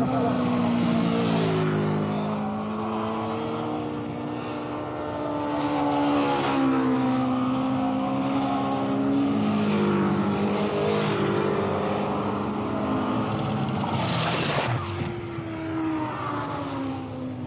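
Superbike racing motorcycles at full throttle, several engines at once, their pitch rising and falling as they accelerate, shift gears and go past. A bike passes close with a short loud rush about fourteen seconds in.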